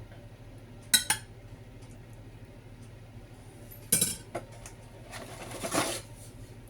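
Kitchen utensils clinking against dishes twice, with a short ring, about a second in and about four seconds in, then about a second of scraping while the lasagna is layered with tomato sauce.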